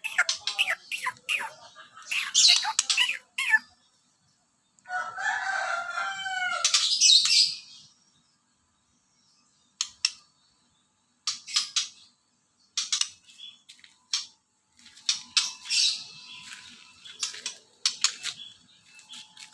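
White-rumped shama (murai batu) singing in short bursts of high, quick phrases separated by pauses, with one longer phrase of gliding notes near the middle.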